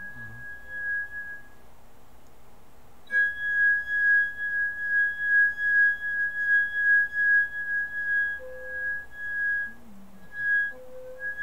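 A steady high-pitched electronic tone with a fainter lower tone beneath it, its loudness pulsing unevenly. It cuts out about two seconds in and comes back abruptly and louder about three seconds in. It is played as the sound of magma moving under Yellowstone.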